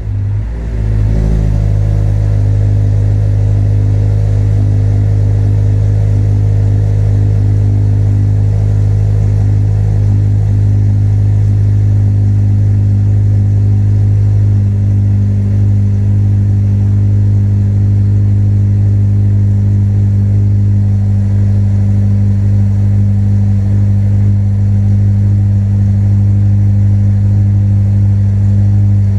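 Supercharged Acura TSX engine idling steadily through a J's Racing full titanium exhaust, settling into an even idle about a second in after starting.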